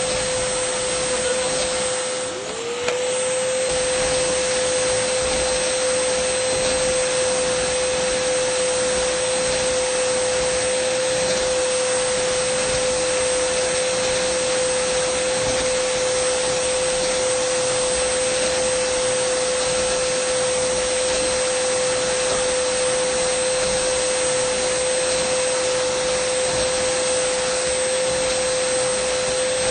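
Dyson vacuum cleaner running steadily: a rush of airflow with a constant motor whine. About two and a half seconds in, the sound briefly drops and the whine slides back up to pitch.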